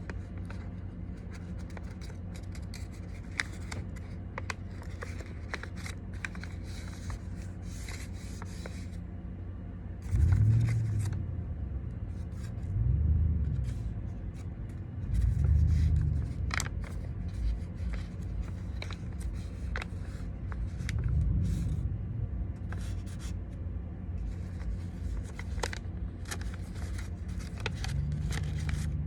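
A sheet of origami paper being folded and creased by hand: repeated crinkles, rustles and small ticks of paper, over a steady low hum. A few low rumbles come and go about a third of the way in and again near the middle.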